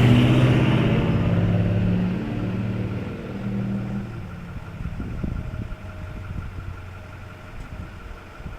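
Ford F-550 Super Duty truck engine running at a steady pitch, loudest in the first two seconds, then the tone drops away about four seconds in, leaving a lower, uneven rumble.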